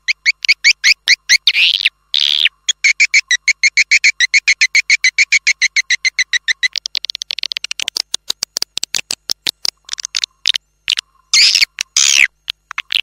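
Swiftlet calls played as a lure sound track. It opens with rapid trains of sharp chirps about eight a second. A long, even chattering trill runs from about three seconds in to the middle. Near the end come dense, rasping buzzy calls.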